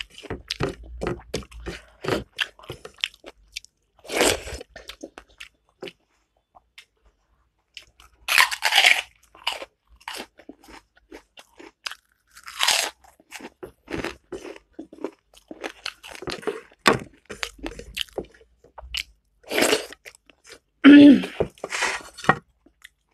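Close-up mouth sounds of a person eating: chewing and wet smacking clicks throughout, broken by several louder crunches.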